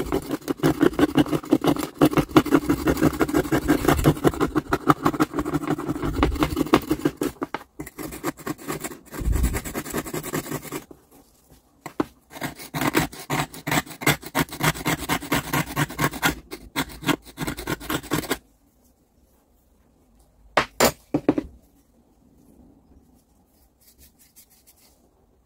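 A hand tool rapidly scraping back and forth on a metal part in quick, even strokes, with a short pause near the middle. It stops about three quarters of the way through, followed by a couple of light clicks.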